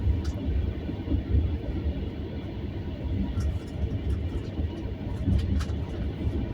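Low, continuous rumble of a moving vehicle, rising and falling in strength, with a few faint clicks.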